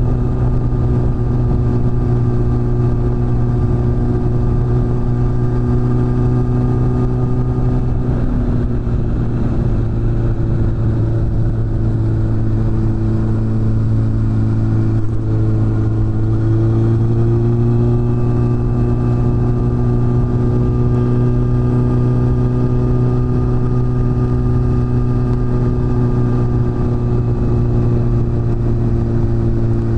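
Suzuki GSF600 Bandit's inline-four engine running through a BOS aftermarket exhaust while riding. The revs hold steady, waver about eight seconds in, then climb about halfway through and settle at a steady higher pitch.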